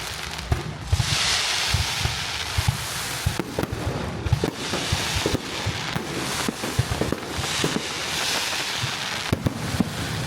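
Fireworks display: many sharp bangs and pops at an irregular pace, over a steady hiss that swells louder twice.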